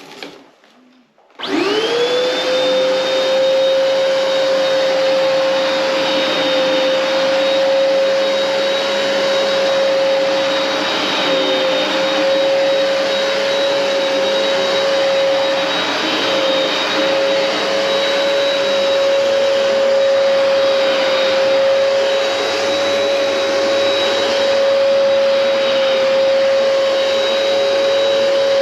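Hoover Powerdash Pet carpet cleaner switched on about a second in: its motor spins up within half a second to a steady, loud, high whine over a rushing suction noise and keeps running evenly.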